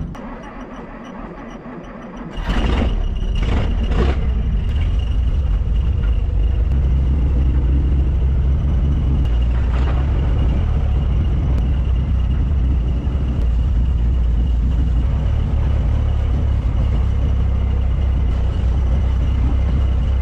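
A sharp knock, then about two seconds in the 1955 Willys station wagon's engine starts and runs steadily and loudly for the rest of the time.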